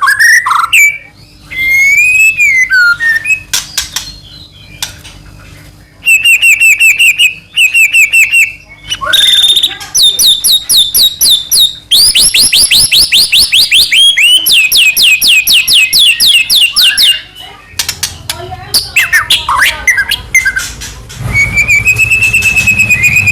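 White-rumped shama singing loudly in varied phrases: gliding whistles, chattering notes and long, fast trills of rapidly repeated notes, with short pauses between phrases.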